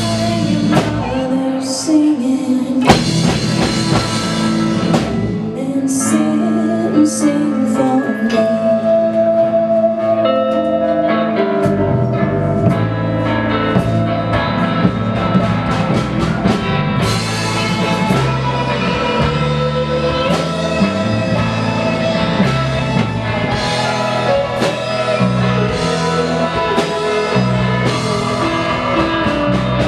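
Rock band playing live: drum kit, bass, guitars, keys and violin, in a full, continuous passage of the song.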